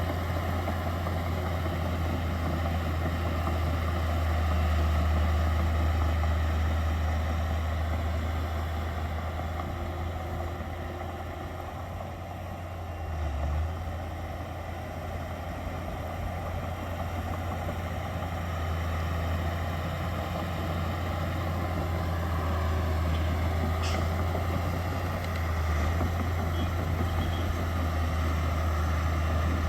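Diesel engines of earth-moving machinery, a bulldozer and dump trucks, running steadily with a deep engine hum. The engine note eases off and builds again about midway.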